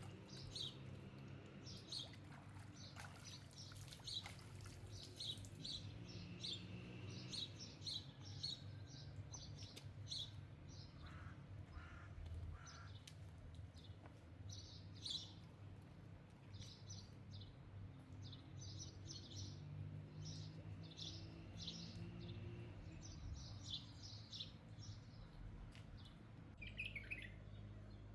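Small birds chirping: many short, high chirps in quick succession, over a faint low steady hum.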